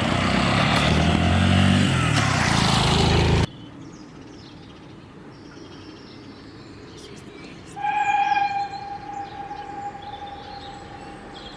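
Loud rumbling engine noise that cuts off abruptly, then about four seconds later a steam locomotive whistle sounds one steady note for about three seconds, fading away.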